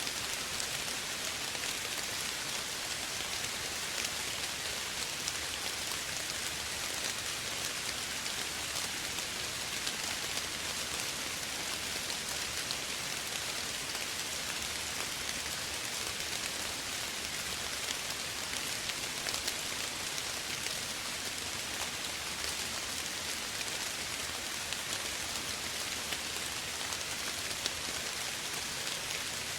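Steady light rain falling, an even hiss made of many fine drop patters.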